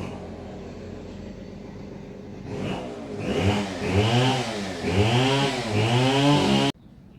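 An engine idling, then revved up and down about four times in quick succession before the sound cuts off abruptly near the end.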